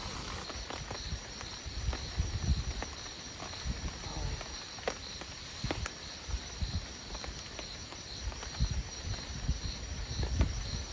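Insects, likely crickets, chirring in a steady pulsing rhythm, over a soft hiss, with scattered clicks and irregular low thuds.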